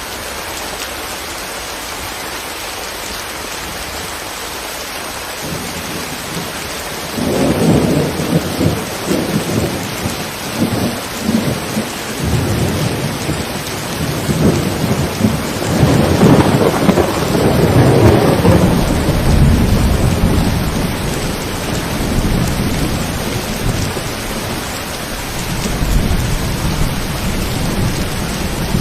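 Steady rain falling, then about seven seconds in a long roll of thunder breaks in, a rough low rumble that grows loudest around the middle, eases off and swells once more near the end while the rain keeps on.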